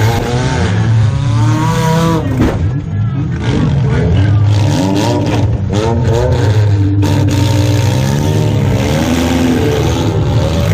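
The engine of a demolition derby car, heard from inside its stripped cabin, revving up and down again and again in pitch.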